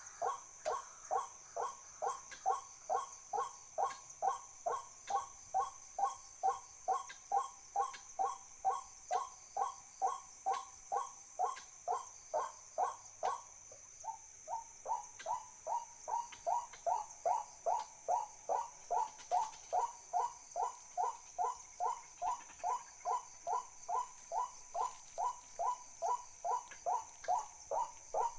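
A bird call repeated steadily about twice a second, each short note falling in pitch, with a brief break about halfway through. A steady high-pitched hiss runs underneath.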